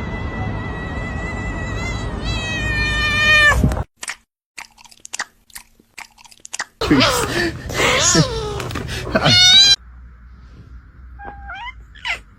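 Cats meowing and yowling: a long drawn-out call that rises sharply at its end, then after a short pause a run of loud, wavering yowls, and a few short chirping meows near the end.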